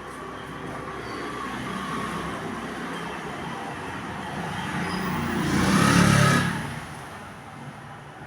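A road vehicle passing by: its noise builds slowly, is loudest about six seconds in, then fades away.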